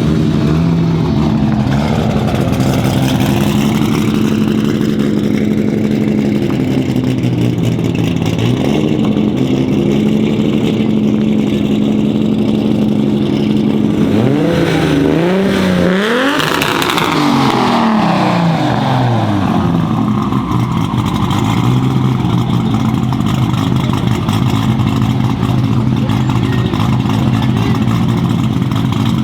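Heavily modified Toyota Supra MK4's big single-turbo 2JZ straight-six, straight-piped, idling loudly. About halfway through it is revved once, the pitch climbing and then falling back to idle over a few seconds.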